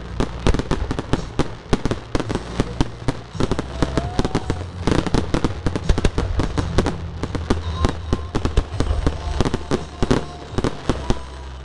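Fireworks going off in quick succession, a dense run of overlapping bangs and crackles from bursting aerial shells throughout.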